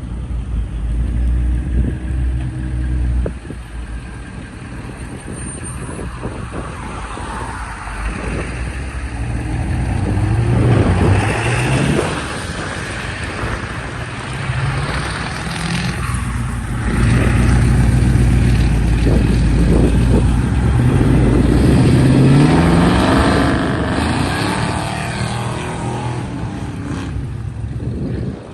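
Car engines with loud exhausts revving and accelerating away, the pitch climbing about eleven seconds in and again about twenty-two seconds in.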